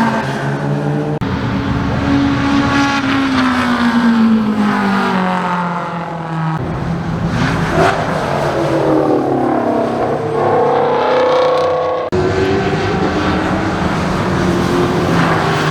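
Car engines running and revving in several short clips cut together. In one the engine's pitch falls slowly; in the next it climbs again as the engine is revved.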